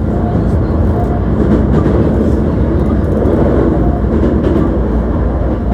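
Running noise inside a Hankyu 1300 series electric train car travelling between stations: a steady, loud rumble of wheels on rail.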